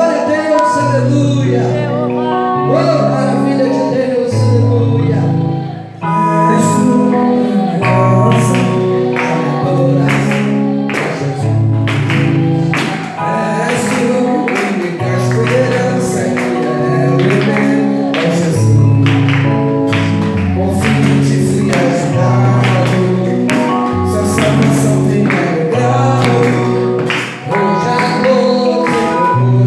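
Gospel worship music with singing over bass and keyboard chords; a regular drum beat comes in about six seconds in.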